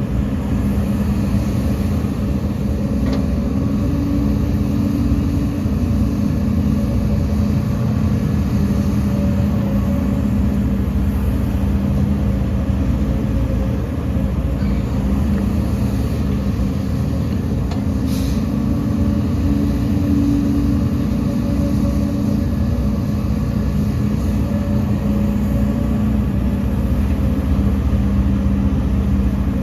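Heavy diesel engine of earthmoving machinery running steadily, with its note rising a little twice for a few seconds.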